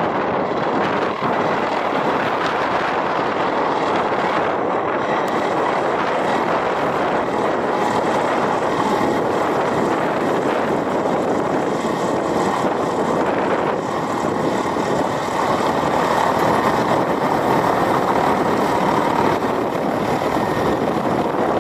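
Mil Mi-171 helicopter's engines and rotor running, a loud steady noise.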